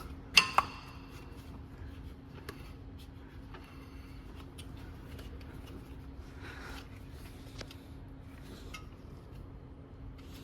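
Two sharp, ringing clinks of hard objects knocking together about half a second in, then faint scattered taps and rubbing over a steady low hum.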